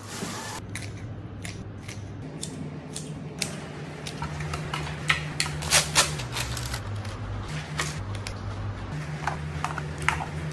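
Irregular sharp clicks and snips of hands working with kitchen items during food prep, a few louder clicks about halfway through, over a low steady hum.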